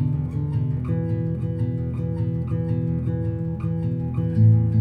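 Instrumental passage of a song: an acoustic guitar plucking a steady repeating pattern over a sustained bass.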